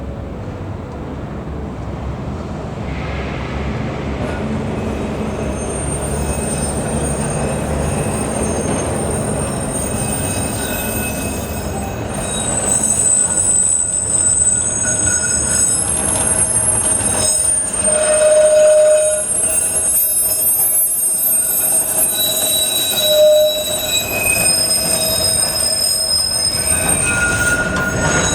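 A heritage tram runs along the track with a low rumble that grows louder. From about halfway on, its wheels squeal against the rails in several high, steady tones that come and go.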